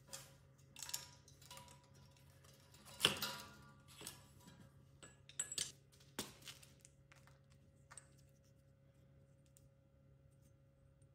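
Metal parts and hand tools clinking and knocking as the moped is taken apart, a string of sharp clinks over the first eight seconds with the loudest about three seconds in, then only a faint steady hum.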